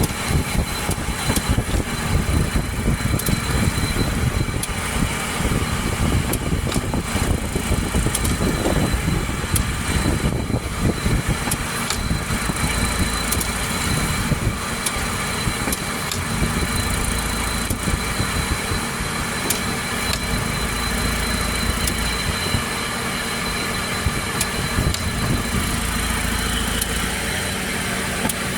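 Chevrolet Aveo's engine running at idle: an uneven low rumble with scattered clicks and a thin steady high whine.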